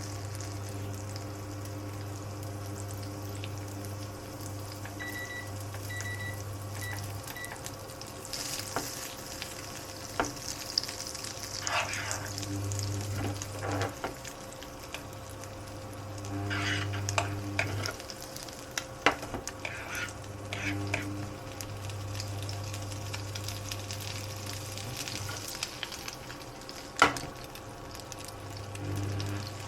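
Food sizzling in a frying pan while it is stirred, with scattered clicks of utensils on the pan and a sharp knock near the end. A low electrical hum cuts in and out, and a few short high beeps come from an appliance about five seconds in.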